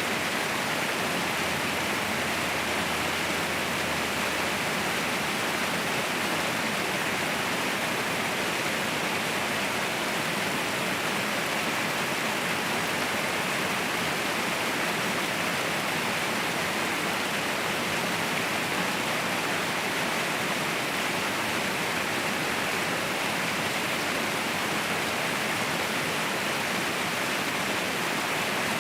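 Waterfall rushing: a steady, unbroken roar of falling water with a hissing edge and no distinct splashes.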